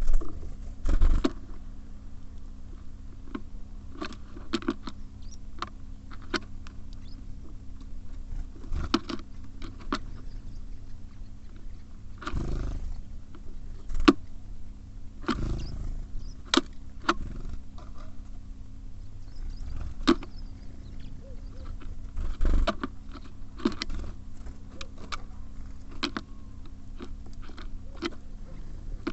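Small birds feeding at a bird feeder: irregular sharp pecks and taps as they take seed, with a few louder flutters of wings as birds land and leave. A steady low hum runs underneath.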